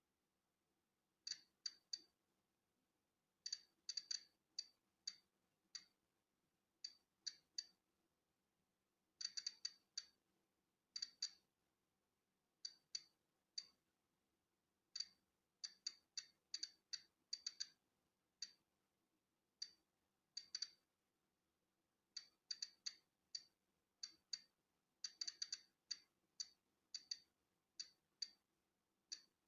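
Polon EKO-C digital Geiger counter clicking at random, uneven intervals as it counts natural background radiation. The sharp, high clicks come singly or in quick runs of several.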